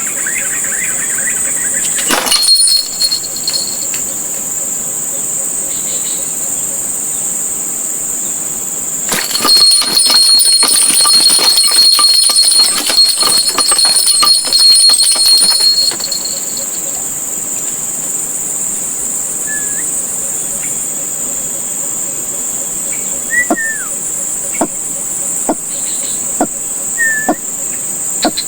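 Steady, high-pitched chorus of insects. About nine seconds in, a louder buzzing with rapid clicks lasts for about seven seconds. Near the end come a few short bird chirps and faint clicks.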